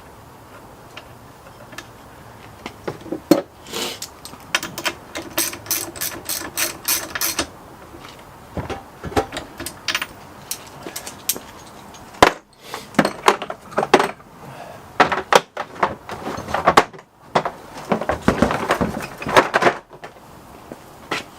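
Hand socket ratchet clicking in quick runs as a part is screwed back into a two-stroke McCulloch Pro Mac 10-10 chainsaw after cleaning. There is a steady train of clicks from about four to seven seconds in, then busier bursts of ratcheting and handling in the second half.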